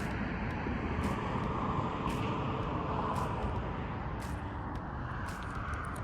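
Highway traffic: a steady rush of passing vehicles that swells and eases, with a few faint short ticks.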